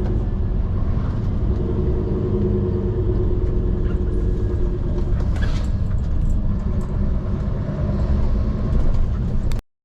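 Scania P360 XT skip truck's diesel engine running with a steady low rumble, cutting off suddenly near the end.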